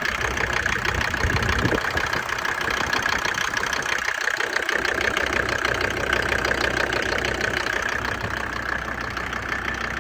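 Mercedes OM 605 five-cylinder diesel idling with a steady, rapid knocking clatter. This is the knock that sets in a few minutes after the glow plugs switch off, and its cause is still unknown.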